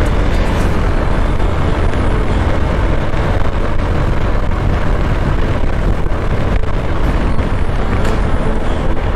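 Steady wind roar on the microphone of a Honda X-Blade motorcycle riding along, with the bike's engine and road noise underneath.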